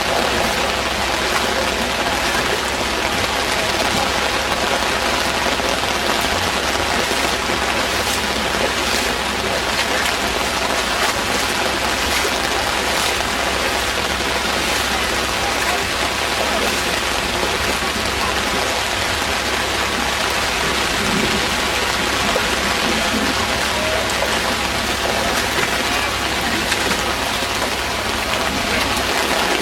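Steady rushing hiss of heavy rain and running floodwater, unchanging throughout.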